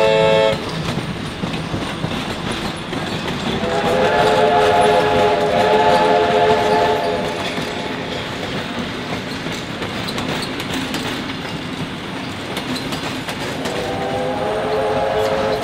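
Train running on jointed track, wheels clicking over the rail joints under a steady rumble. A train whistle sounds a chord-like blast lasting about three seconds around four seconds in, and again near the end, with the last of an earlier blast cutting off just after the start.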